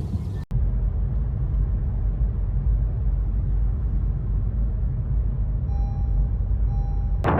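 Low, steady outdoor rumble from a field recording, with two faint short tones near the end.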